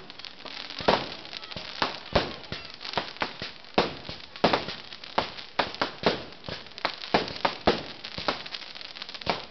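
Aerial fireworks bursting: an irregular run of sharp bangs and pops, about two or three a second, some louder than others.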